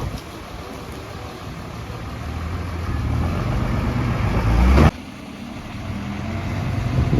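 Diesel engine of heavy earthmoving machinery running under load. Its sound builds gradually, breaks off abruptly about five seconds in, then builds again.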